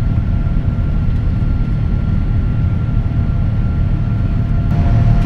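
Steady low rumble of airliner cabin noise inside a Boeing 787-9 in flight, with a faint steady tone over it. Near the end a hiss and a second steady tone come in as the cabin PA opens.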